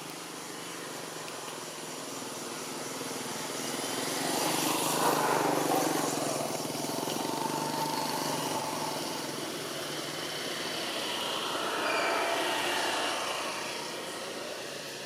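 Passing vehicles: a steady noise that swells up and fades away twice, peaking about five seconds in and again about twelve seconds in.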